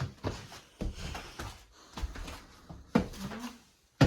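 Footsteps climbing a flight of stairs: a string of irregular thumps and knocks.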